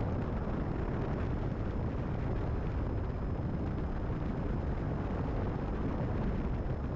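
Steady drone of a Cessna 172RG's four-cylinder Lycoming engine and propeller heard from inside the cockpit, running at reduced power on final approach, with airflow noise over it.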